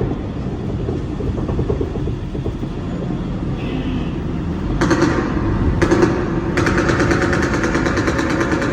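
Low steady rumble of the studio tour tram running. About five seconds in, louder sounds from the ride's show cut in suddenly, twice, and then carry on as a rapid pulsing with a steady hum.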